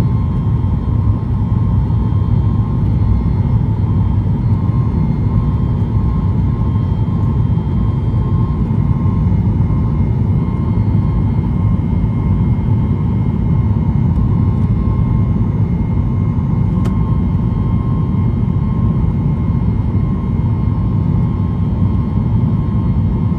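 Boeing 737-8 MAX's CFM LEAP-1B jet engines heard from inside the cabin, running steadily at high power: a loud, even, deep rumble with a thin steady whine above it. A single faint click about seventeen seconds in.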